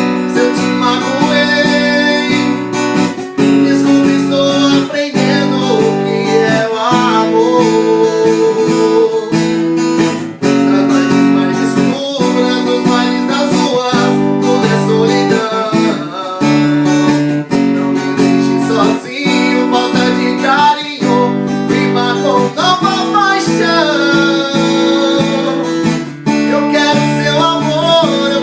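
Acoustic guitar strummed in steady chords, accompanying a man singing the melody at times.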